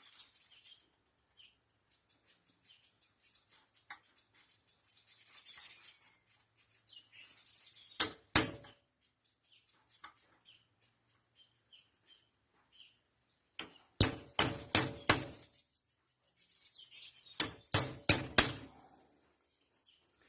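Hammer blows on metal with a bright ring: a pair, then a quick run of five, then four more. Faint scraping and clinking of metal parts come between the groups.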